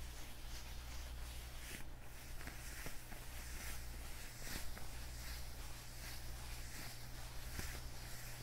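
Leather gloves being worn, rubbed and flexed close to the microphone: soft, irregular rustling swishes and creaks with a few light clicks.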